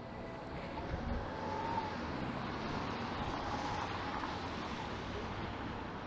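A car passing on a wet city street, its tyre hiss swelling about a second in and easing off near the end.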